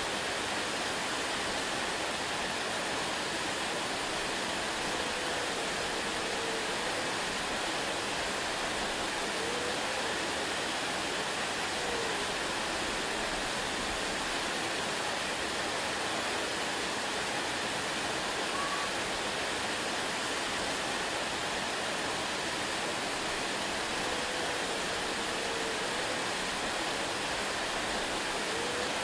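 Waterfall rushing in a steady, unbroken roar of water. A few faint short gliding chirps sound over it now and then.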